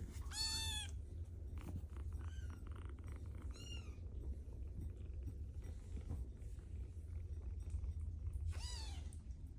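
Young kittens mewing: short, high-pitched, arching mews, a loud one at the start, a few fainter ones a couple of seconds in, and another loud one near the end.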